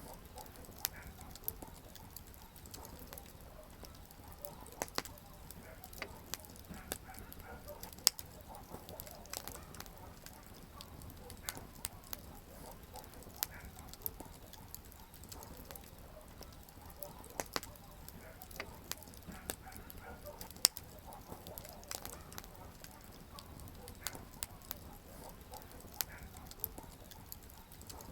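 Wood campfire burning, with irregular crackles and sharp pops over a low steady rush of flame. Two pops stand out as much louder, about a third of the way in and about three quarters of the way in.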